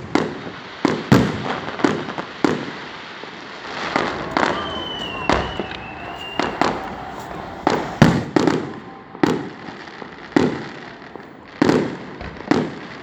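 Aerial fireworks bursting: a fast, irregular run of sharp booms and cracks, more than a dozen, each with a trailing rumble, and a thin wavering whistle a few seconds in.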